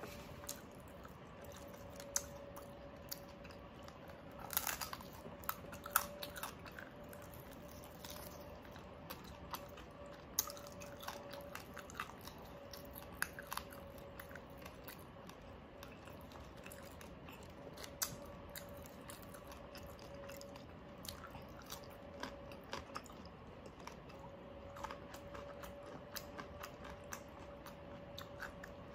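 Close-up chewing and biting of crispy deep-fried pork knuckle (crispy pata) with rice, with scattered sharp crunches of the skin, a cluster of louder ones about five to six seconds in.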